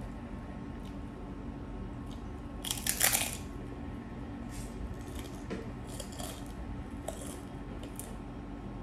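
A crunching bite into a crisp chunk of food about three seconds in, followed by softer crunches of chewing every half second or so.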